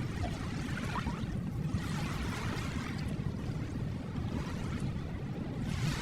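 Recorded ocean waves for sleep: a constant low surf rumble, with one wave washing in about two seconds in and dying away, and another swelling near the end.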